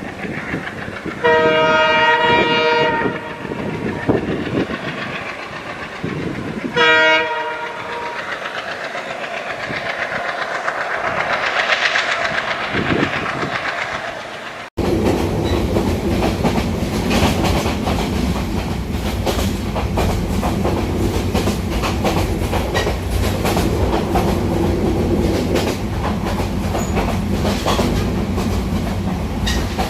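Train locomotive horn sounding two long blasts, each a chord of several tones, the second shorter. The train then passes with a swelling rush of noise. After an abrupt cut about halfway through, a moving train's steady rumble and wheel clatter run on.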